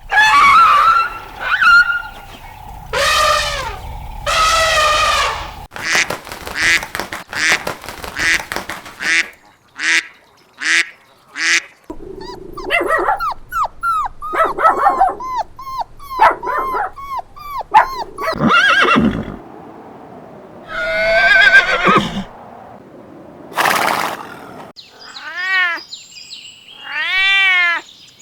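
A string of different animal calls, one after another: horse whinnies, dog barks and other animal cries, ending with a few cat meows.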